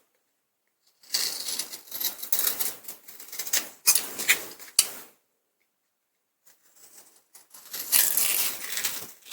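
Scissors cutting an adhesive ripstop nylon repair patch and rounding its corners, with the thin sheet crinkling and rustling in the hands. Two stretches of irregular snipping and crackling, with a short silent pause between them.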